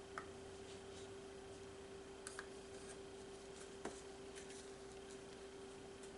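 A few faint, short clicks and taps, small objects being handled, over a steady low hum: one just after the start, a quick pair a little past two seconds, and one near four seconds.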